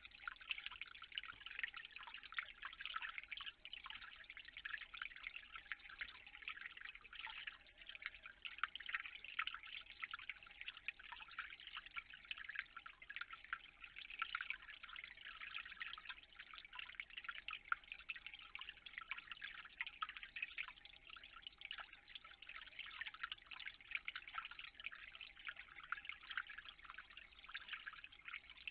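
Water trickling and dripping steadily, a continuous crackle of many small drips and splashes.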